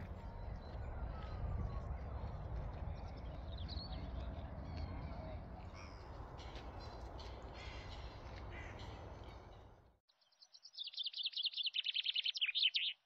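Outdoor ambience of a low rumble with scattered high bird chirps, which cuts off suddenly about ten seconds in. A bird then gives a loud, rapid chattering run of high notes for about two seconds, falling slightly in pitch, and stops abruptly.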